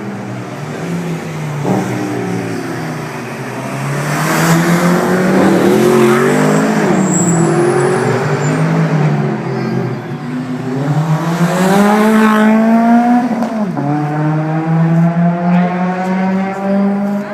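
Sports car engine accelerating hard, its note climbing twice and dropping suddenly at a gear change about three-quarters of the way through, then holding steady.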